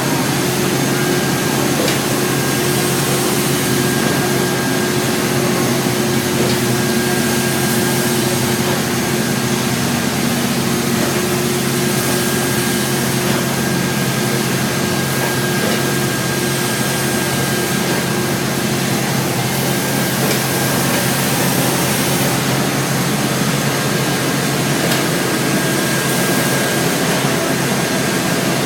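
Steamboat machinery running steadily: a loud, even rush with a low hum and a faint high whine.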